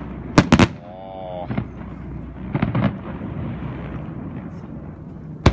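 Fireworks bursting: two sharp bangs less than a second in, a cluster of duller booms about halfway, and another sharp bang at the end, over a steady low background rumble and a brief voice.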